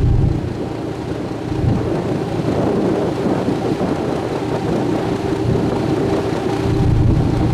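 Sightseeing cruise boat underway: a steady engine hum under a loud, rushing rumble of wind and water, the low rumble swelling near the start and again near the end.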